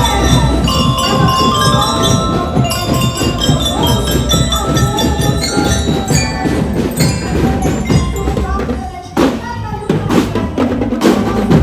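Parade band music: a bright bell-like melody, like bell lyres or glockenspiels, over rapid snare and bass drumming, with a few heavy drum strikes near the end.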